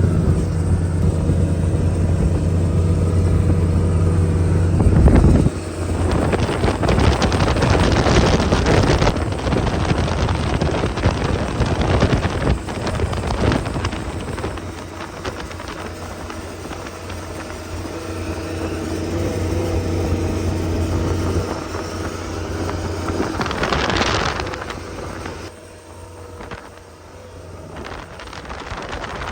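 Boat motor running steadily under way, its carburetor being cleaned out by fuel treatment burned at cruising revs. About five seconds in, the steady engine hum gives way to a louder rush of wind and water noise that later eases off.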